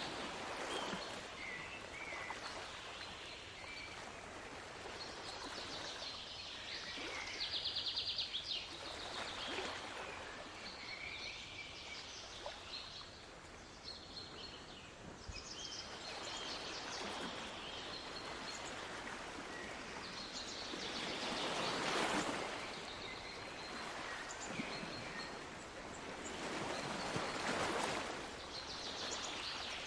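Sea waves washing in, swelling up every five or six seconds over a steady hiss of surf, with small birds chirping and a quick trill about eight seconds in.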